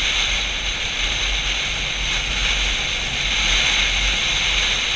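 Steady wind noise rushing over the microphone of a Yamaha FZ-07 motorcycle on the move, an even hiss with a low rumble beneath.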